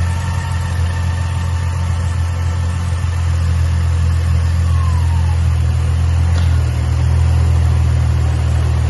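Freshly installed remanufactured engine in a 2005 Ford Mustang running steadily at idle, a low hum that grows a little louder about three seconds in and again past six seconds.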